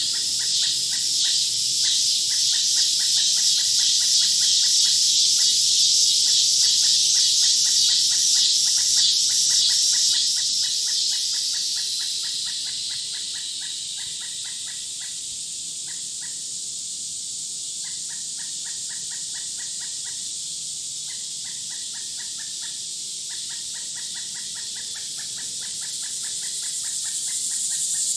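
A chorus of insects chirping: a dense, shrill pulsing chorus, loud for the first dozen seconds, then fading away and swelling again near the end, over a steady fast chirping that pauses now and then.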